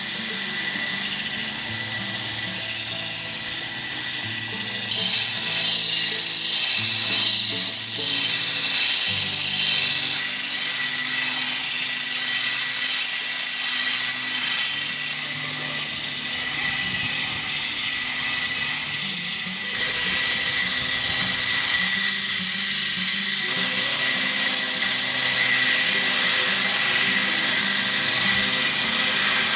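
A high-speed power tool running steadily with a high-pitched whine, over background music.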